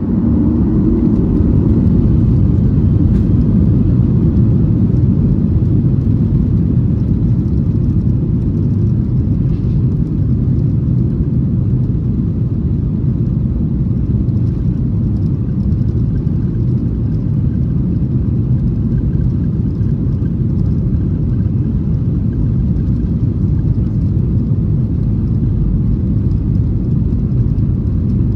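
Boeing 737-800's CFM56-7B turbofan engines at takeoff thrust, heard from inside the cabin just after liftoff: a steady low rumble that eases slightly after a few seconds.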